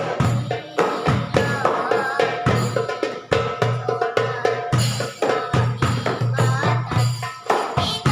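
Sholawat music in the banjari style: rebana frame drums beating a quick, steady rhythm, with a melody line that glides and bends above them.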